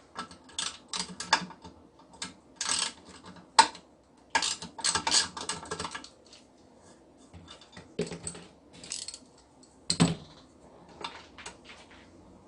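Rapid runs of small hard clicks and clatters from hand tools and metal parts being handled, dense for the first half, then sparser, with one louder knock about ten seconds in.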